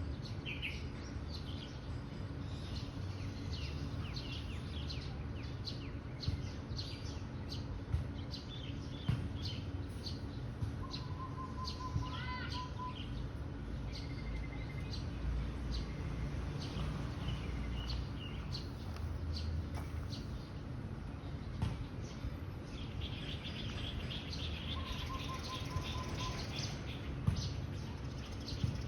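Wild birds chirping and calling, with many short high chirps and twice a steady whistled note, over a constant low rumble.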